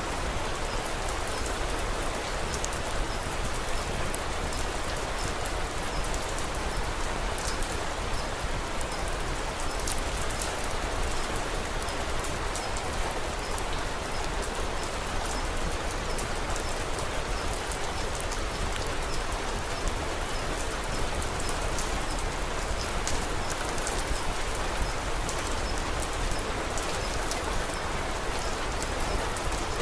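Steady rain falling on a surface, mixed with frequent small, sharp crackles from a wood fire.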